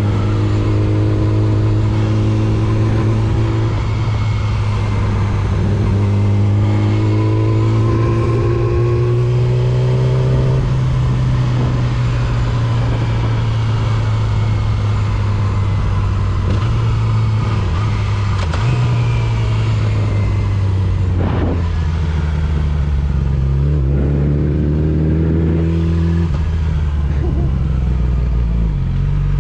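Motorcycle engine running under way. Its pitch climbs as it accelerates and drops at gear changes about four and ten seconds in and again near the end, with steady cruising in between.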